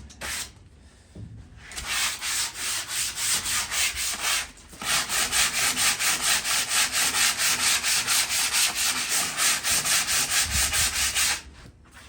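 Sandpaper rubbed by hand over a metal patio chair in quick back-and-forth strokes, scrubbing off surface rust. A first run of strokes breaks off about four and a half seconds in, then a steady run of about four strokes a second stops near the end.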